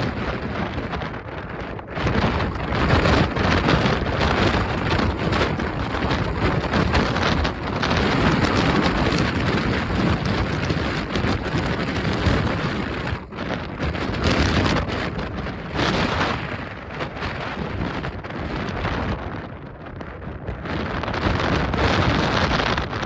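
Strong gusty wind buffeting the microphone, a dense rushing noise that rises and falls with the gusts.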